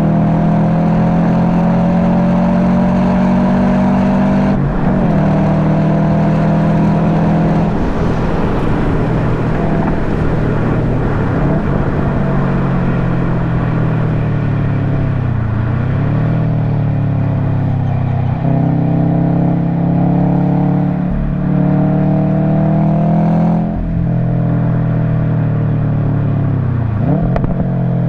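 Subaru WRX STI's turbocharged flat-four engine, through an Invidia Q300 aftermarket exhaust, being driven hard: the revs climb and drop sharply at each gear change, several times. Near the middle the revs sink and then pick up again.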